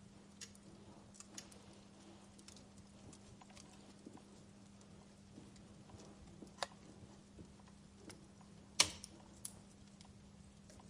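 Wood fire crackling: scattered sharp pops and snaps at irregular intervals, the loudest about nine seconds in.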